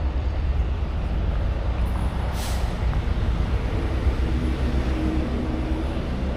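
Steady low rumble of an idling vehicle engine, with a short hiss about two and a half seconds in.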